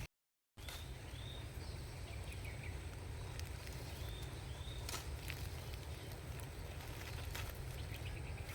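Outdoor forest ambience: a steady low rumble with a faint, constant high insect drone. Short bird chirps come in two pairs, about a second in and again about four seconds in. The sound drops out completely for half a second just after the start.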